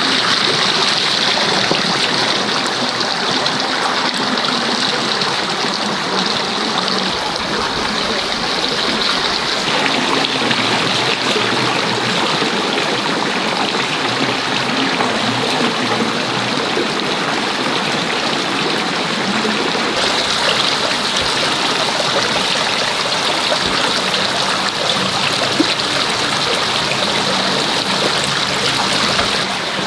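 Steady flow of running water.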